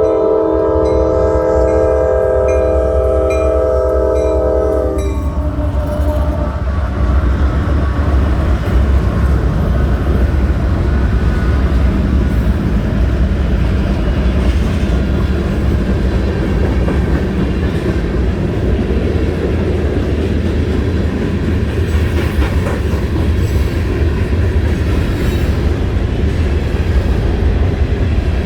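A CSX freight train's multi-chime air horn sounding a held chord that cuts off about five seconds in, followed by the loud, steady rumble of GE diesel locomotives and freight cars rolling past with wheels clicking over the rail joints.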